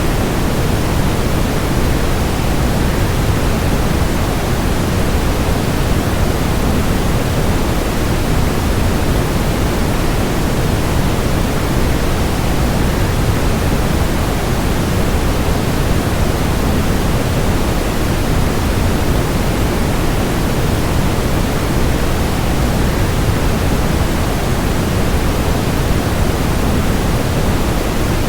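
Steady, unchanging rushing noise of a waterfall white-noise track, heaviest in the low end.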